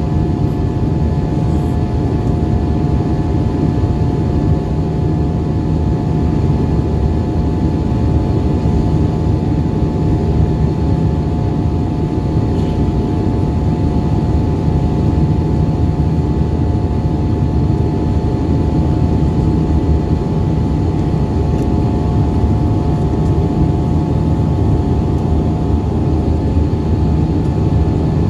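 Airbus A320 cabin noise heard from a window seat in flight: the steady hum of the jet engines and rushing air, with a few steady tones in it, unchanging throughout, typical of the climb after takeoff.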